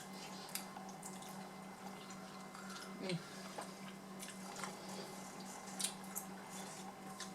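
Quiet eating sounds: wet chewing and mouth noises, with scattered faint clicks of utensils, over a steady low hum. A brief hum of a voice about three seconds in.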